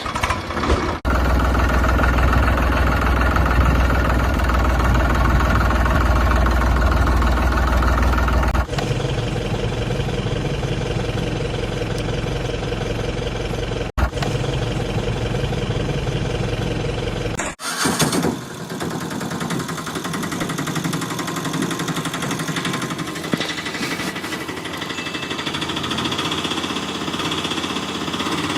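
Engine running steadily, heard in a run of clips cut together, so the sound changes abruptly about a second in, near nine seconds, at fourteen seconds and near eighteen seconds.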